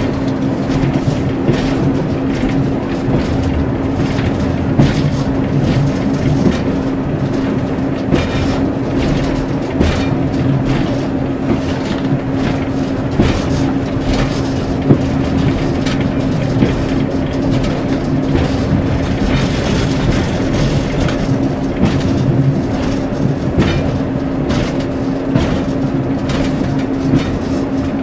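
The cab of a class 141 Pacer railbus under way: its diesel engine runs with a steady drone, while frequent sharp clicks and knocks come from the wheels on the track and the rattling body.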